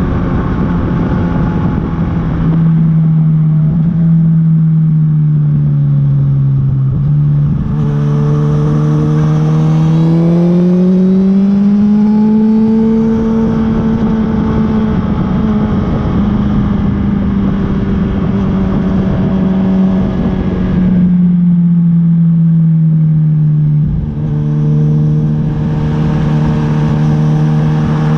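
Honda CB1000R's inline-four engine pulling on the road, its note falling, then climbing steadily for a few seconds, holding, and easing off again.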